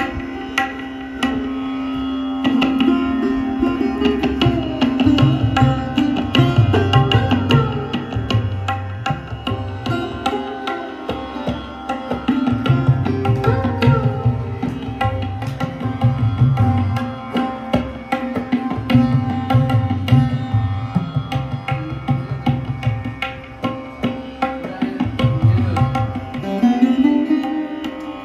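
Sarod playing a Hindustani classical melody in plucked notes over a steady held tone, with tabla joining about three seconds in and playing deep drum strokes in repeated phrases.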